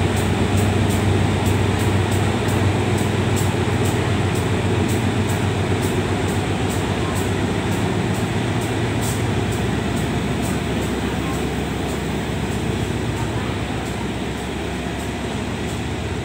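Diesel-hauled passenger train pulling away past the platform. The locomotive's low engine drone fades as it recedes, while the coaches roll past with steady wheel-on-rail noise and a quick regular ticking.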